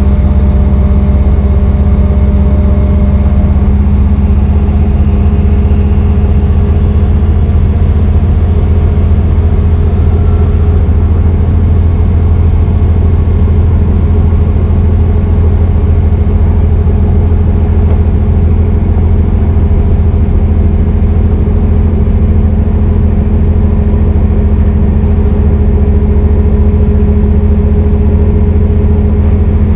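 Brøyt X21 excavator's diesel engine running steadily at an even speed, a loud deep drone.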